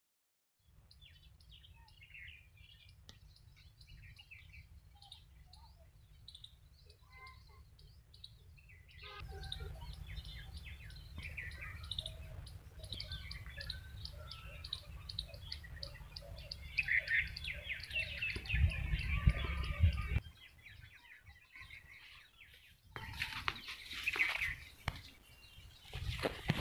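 Small birds chirping and twittering, many short calls overlapping, busier after the first third. Under them runs a low rumble that swells for a couple of seconds about two-thirds of the way through.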